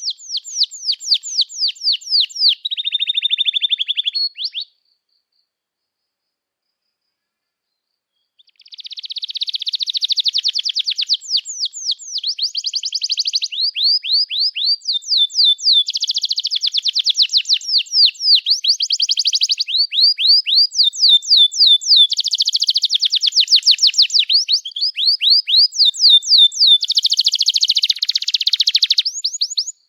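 Domestic canary singing a long, high-pitched song of fast trills and rapidly repeated sweeping notes. The song breaks off about five seconds in, stops for about four seconds, then resumes and runs on.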